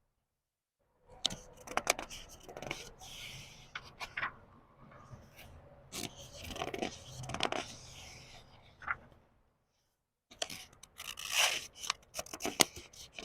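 Book pages being turned slowly, paper rustling and crinkling with sharp flicks and snaps. There are two bouts: one starts about a second in, and the other, louder one follows a short silent pause near the three-quarter mark.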